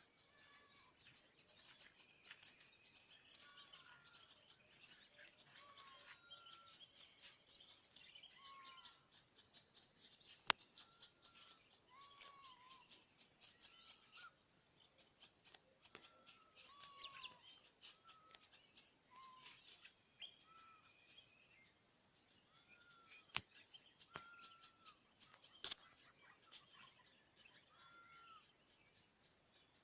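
Faint birdsong: one bird repeats a short call every second or two over dense high chirping. A few sharp clicks fall in between, the loudest about ten seconds in.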